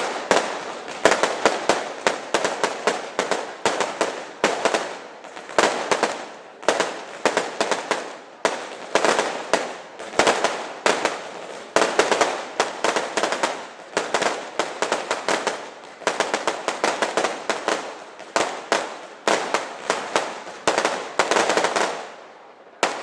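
Fireworks display: rapid volleys of sharp bangs and crackling, a fresh salvo about every second, which stops shortly before the end.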